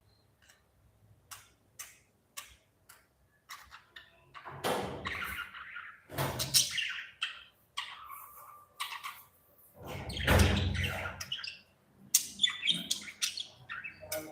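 Budgerigars chirping and squawking, sparse at first. From about four seconds in come louder thumps and rustles, the loudest about two-thirds of the way through.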